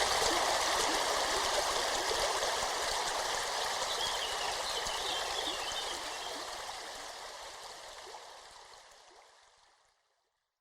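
Running water of a small stream, a steady rushing and burbling that fades out gradually over the last few seconds to silence.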